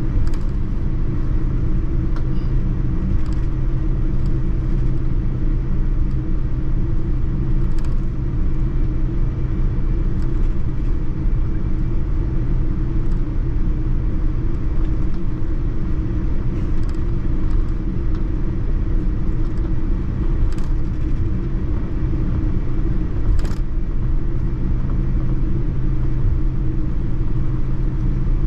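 Steady low rumble of cabin noise inside a Boeing 787-9 airliner, engine and airflow noise, with a few faint clicks.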